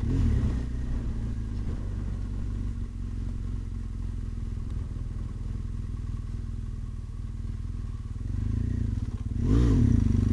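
BMW R1200GS boxer-twin engine running at low speed, heard from the rider's seat, getting louder with a brief rise and fall in pitch near the end.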